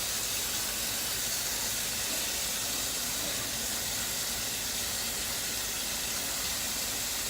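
Water running steadily from a tap: a constant, even hiss.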